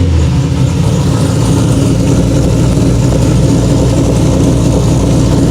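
Supercharged 6.2-litre V8 of a Camaro SS with Borla exhaust and headers idling steadily, a loud, deep exhaust note.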